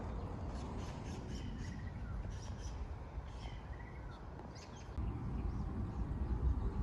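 Small birds chirping intermittently over a low background rumble that gets louder about five seconds in.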